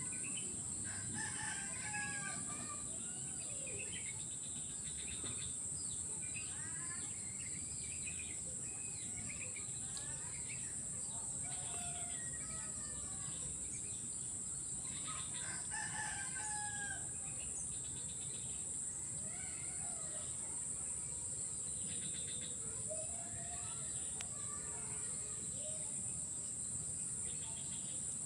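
Birds calling over and over, short sliding calls through the whole stretch, over a steady high-pitched insect drone.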